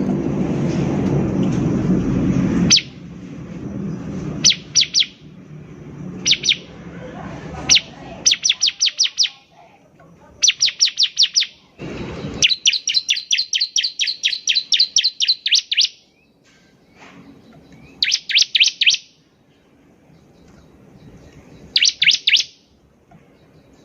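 Bar-winged prinia (ciblek) singing in bursts of rapid, sharp high chirps, with a longer, even rattling trill a little past halfway. A low rumble sits under the song in the first few seconds.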